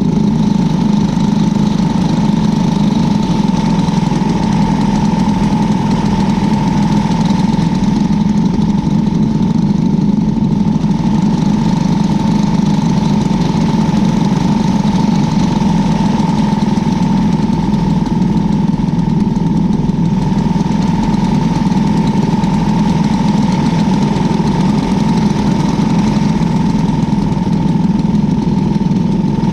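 Cadet wing sprint car's engine idling steadily at an even pitch, heard from on board the car.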